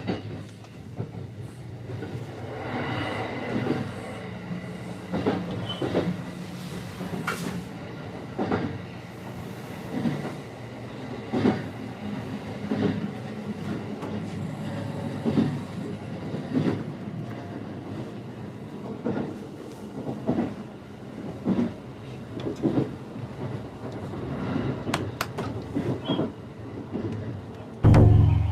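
Train running on rails, its wheels knocking over rail joints about every second and a half over a steady rumble. A loud low hum starts suddenly near the end.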